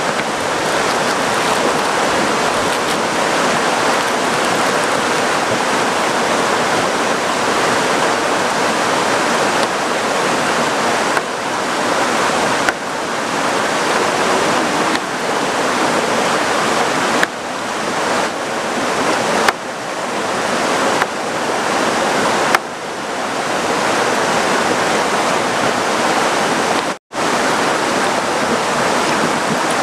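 Heavy rain pouring down in a loud, steady hiss, broken by a few sudden short dips, the deepest a few seconds before the end.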